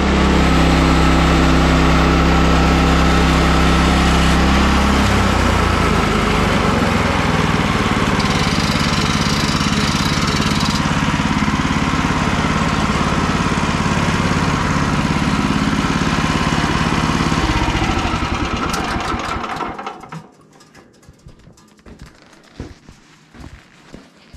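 Woodland Mills HM122 bandsaw mill's small gas engine running loud and steady while sawing boards, its pitch shifting about five seconds in. It winds down and stops about twenty seconds in, leaving a few light knocks.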